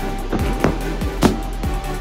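Fireworks going off in a display: about four sharp bangs at uneven intervals over music.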